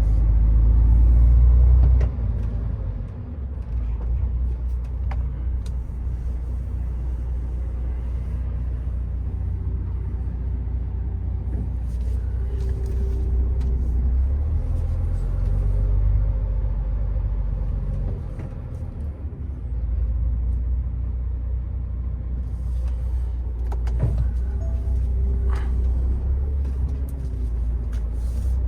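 MAN TGX 18.510 truck's six-cylinder diesel engine running at low speed with a deep rumble, louder for the first two seconds and then easing off abruptly. A few light knocks come and go.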